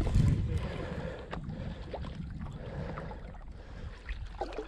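Water sloshing and trickling around the boat as a hooked catfish is landed, opening with a brief low rumble and followed by a few light knocks.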